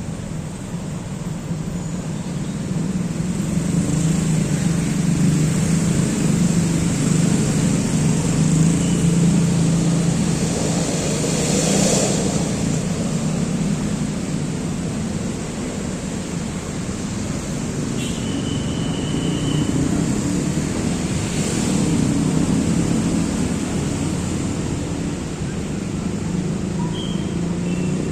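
Steady road traffic noise, a low rumble that swells and fades as vehicles pass, with a few brief faint high chirps.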